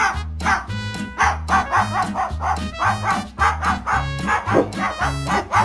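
A rapid series of short barks, about two a second, over background music with a steady bass line.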